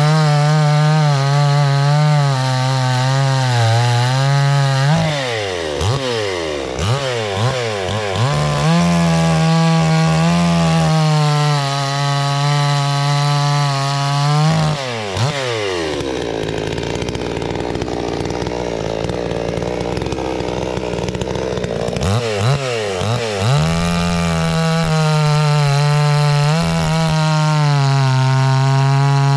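Two-stroke 60 cc-class gas chainsaw at full throttle. Its revs dip and climb several times, then from about halfway through it drops in pitch and bogs down as it cuts through wood for several seconds, before revving back up to a steady high pitch.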